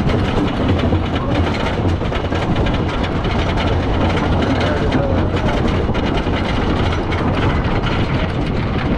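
Wooden roller coaster train rattling and clattering along its track at speed, with a steady rush of wind buffeting the rider-mounted microphone.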